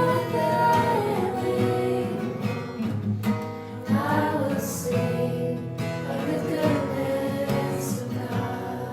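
Worship song: a voice singing over a strummed acoustic guitar.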